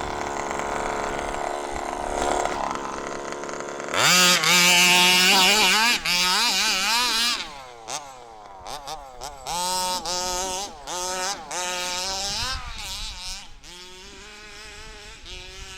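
The 29cc two-stroke engine of a 1/5-scale HPI Baja 5B gas RC buggy running lower at first, then revved hard for about three seconds, then blipped up and down repeatedly, with the buggy stuck in wet snow.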